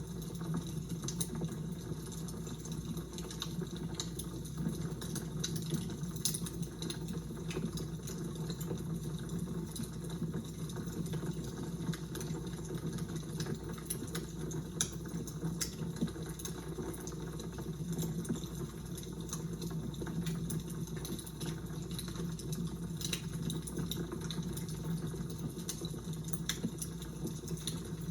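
Fire crackling: irregular sharp pops and snaps over a steady low rustle.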